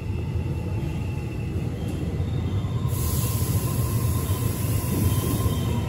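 Donghae Line electric commuter train at the platform, a steady low rumble. A high hiss comes in about three seconds in and lasts about three seconds.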